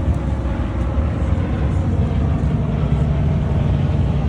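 A car engine running steadily at low revs, a loud, low-pitched rumble.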